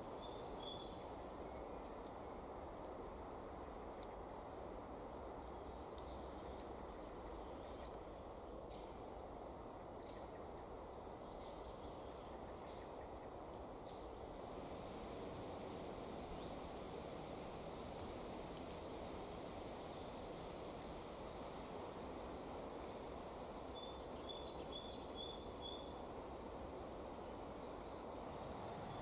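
Outdoor ambience: a steady background hiss with a small bird calling in short, high chirps every few seconds, including a quick run of about five notes near the end.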